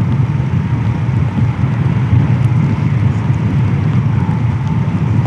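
Eurofighter Typhoon jet engines running: a loud, steady low rumble that holds level throughout.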